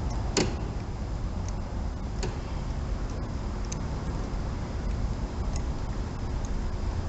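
Spark plug being threaded in by hand with a socket and extension: a sharp metallic click about half a second in, then a few faint ticks, over a steady low background rumble.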